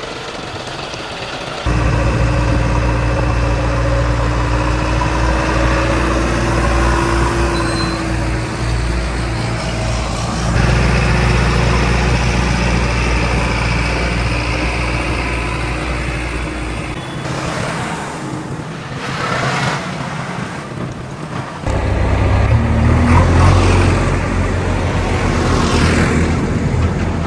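Diesel engines of a backhoe loader and tractors running under work, a steady heavy drone. The sound shifts abruptly several times. For a few seconds past the middle the deep drone drops away and a lighter clatter is heard before the heavy running returns.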